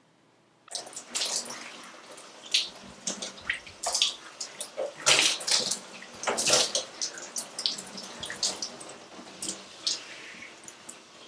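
Water splashing and running in uneven splashes, like washing at a tap or tub.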